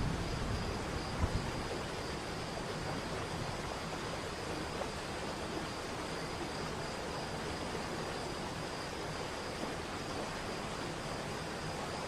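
Waterfall rushing in a steady, even roar of falling water. A deeper rumble with a single thump about a second in gives way to the even rush, over a faint steady high tone.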